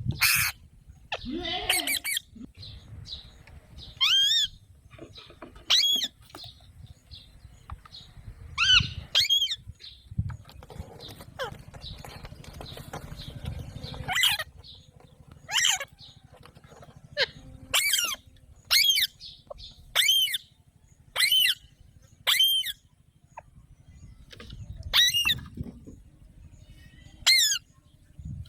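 Alexandrine parakeet calling: a string of short, high, sharp calls, about one every second or two, with a quieter stretch in the middle.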